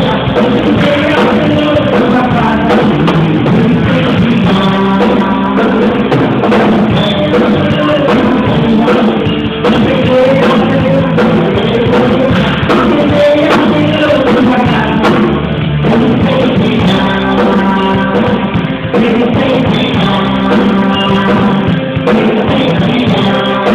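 Worship band music with a drum kit and guitar, with singing.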